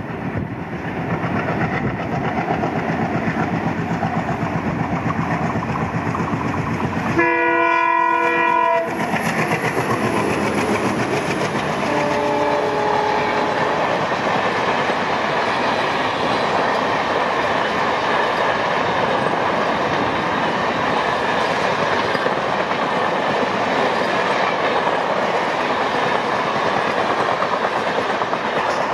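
ALCO diesel locomotive train running with steady engine and wheel noise and the clickety-clack of wheels over rail joints. About seven seconds in, its multi-tone horn sounds loudly for about a second and a half. A shorter, fainter horn follows a few seconds later.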